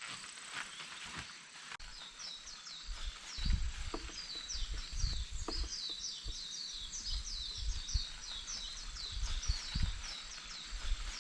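A bird singing a long, fast run of short high chirps, starting about two seconds in, over irregular low rumbles and outdoor background noise.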